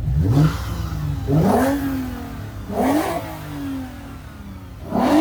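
Car engine revved four times in quick blips over a steady idle, each rev rising in pitch and falling back; the last one is held briefly before dropping.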